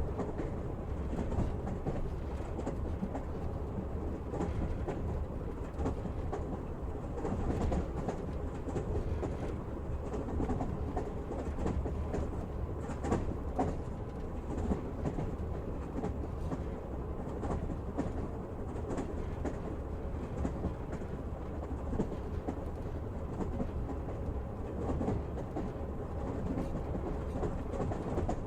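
Passenger train running steadily on the track, heard from inside a carriage: a continuous low rumble of the wheels, with irregular clicks as they pass over rail joints.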